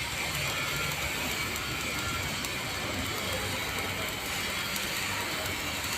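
Stick (shielded metal arc) welding arc crackling and sizzling steadily.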